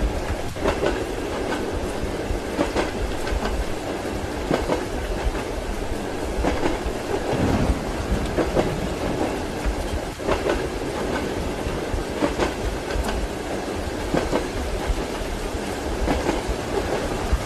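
Train wheels clattering over rail joints, a steady rumble of a moving railway carriage with repeated clacks heard from inside the compartment.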